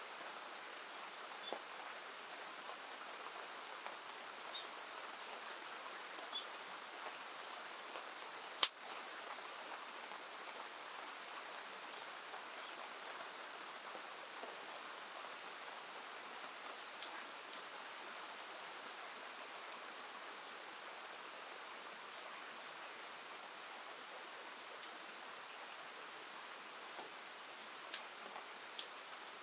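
Steady rain falling, with scattered light ticks and one sharp snap about a third of the way in.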